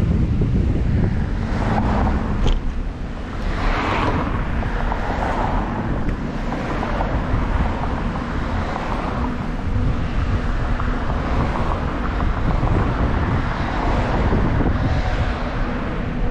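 Wind buffeting the microphone of a camera carried on a moving bicycle, a steady rushing noise with a few louder swells, one about four seconds in and another near the end.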